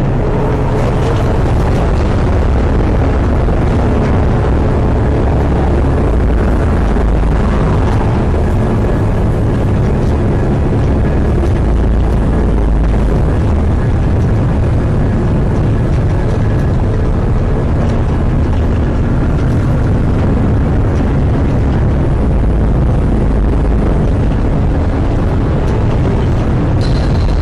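Hurricane wind blowing hard against the microphone: a loud, steady rumbling noise with no let-up.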